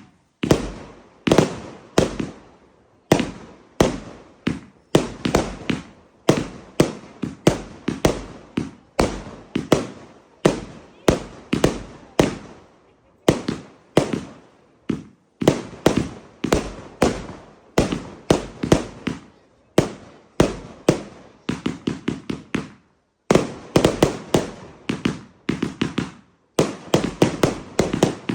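Fireworks going off in a long rapid run of sharp bangs, about two to three a second, each one trailing off briefly. There are a few short pauses, and tighter clusters of quick reports near the end.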